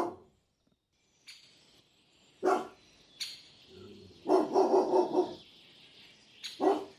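A dog barking: single barks with pauses between them, and a quick run of several barks in the middle.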